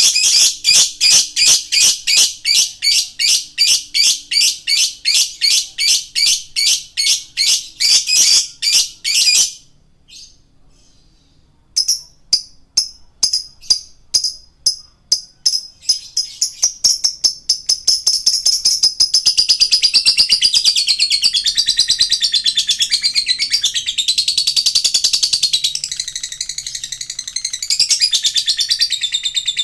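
Male lovebird in full song: sharp high chirps repeated about three a second, a short break about a third of the way in, then chirps that quicken into a fast continuous chatter.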